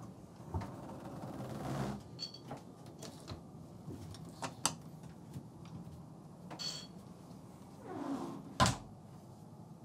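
A few sharp clicks and knocks of doors or fittings being handled, the loudest near the end, with soft rustling between them.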